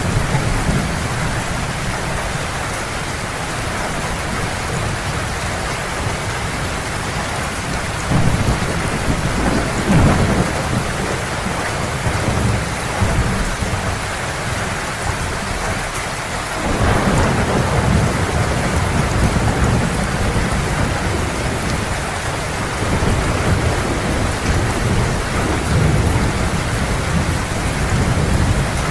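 Heavy rain falling steadily, with rolling thunder. Low rumbles swell about eight and ten seconds in, and a longer rumble of thunder sets in just past halfway and goes on.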